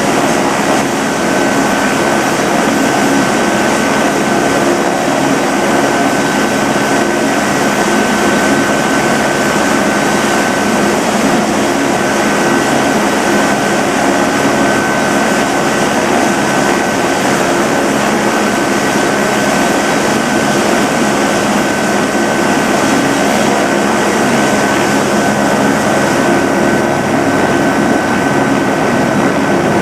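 Helicopter running steadily on its turbine engine and rotor: a constant high whine over a dense, even noise, with no change in pitch or loudness.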